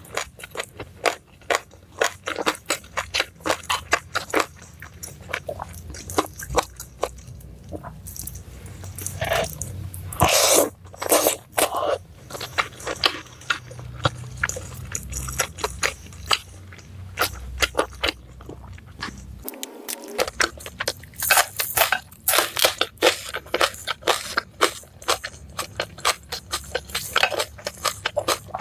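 A person chewing food close to the microphone: steady chewing with many sharp crunches and mouth clicks, with a few heavier bites about ten seconds in.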